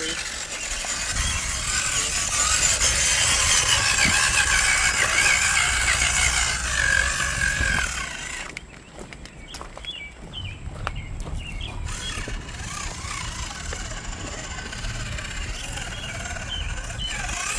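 Small electric motor of a 1/10-scale RC crawler truck whining, its pitch wavering up and down with the throttle, over a loud hiss. About halfway through the sound changes abruptly to a quieter background with a low rumble and a few short chirps.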